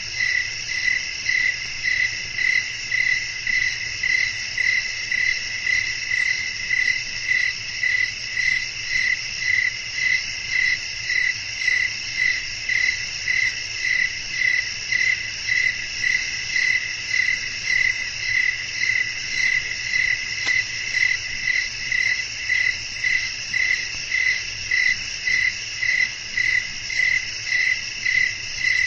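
Crickets chirping at night: one loud cricket pulses evenly about twice a second over a steady, higher-pitched insect chorus.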